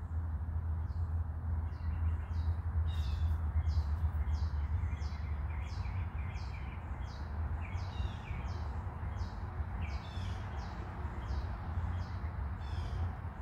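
A bird chirping over and over, short high falling notes about twice a second, over a steady low hum.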